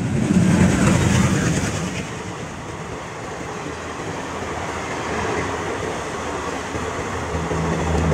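Passenger train with green and yellow coaches passing at speed, a steady rush of wheel and rail noise that is loudest in the first two seconds. A low steady hum joins near the end.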